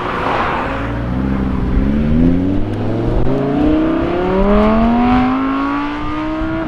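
Lamborghini Huracán's V10 engine accelerating hard away from a junction. The engine note climbs in pitch in a series of steps as it shifts up through the gears.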